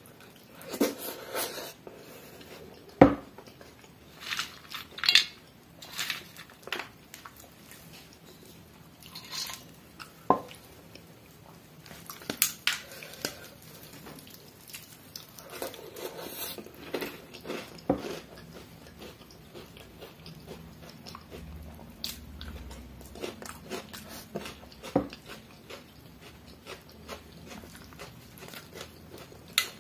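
Close-up eating sounds: a man chewing mouthfuls of water-soaked rice (pani bhat) mixed with crunchy fried chips, with scattered crunching bites and wet smacking. Now and then comes a sharp click of hand or food against the steel plate, the loudest about three seconds in.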